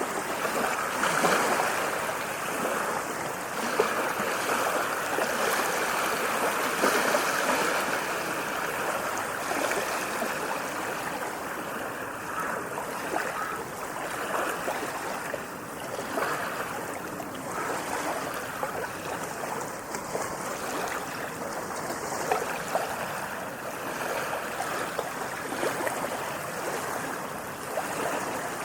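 Water waves washing and splashing without pause, louder for the first several seconds and then steadier.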